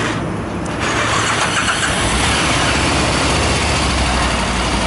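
Motor-vehicle traffic: engines running with road and wind noise, and a deeper, louder engine drone setting in about two seconds in.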